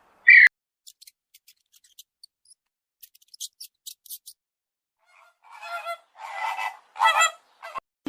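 Farm fowl calling: one short call just after the start, then a run of about four harsh calls in the last few seconds, each louder than the one before, with faint scattered ticks in between.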